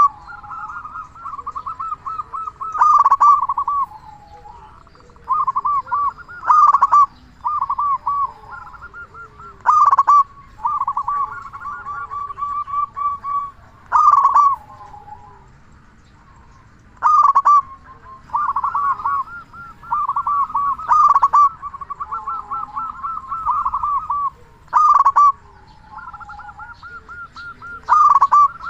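Zebra dove (perkutut) cooing with a big voice: rapid staccato coo phrases, each opening with a loud, sharp note and repeated about every three to four seconds.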